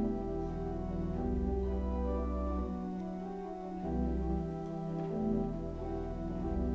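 Organ music: slow, sustained chords, with deep bass notes that change every second or two.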